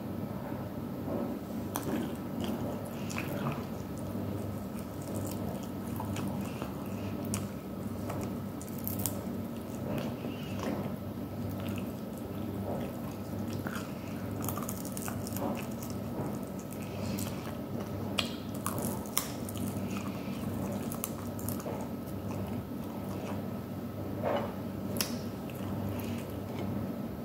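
A person biting and chewing crispy grilled chicken wings, with small scattered crunches and mouth sounds, over a steady low hum.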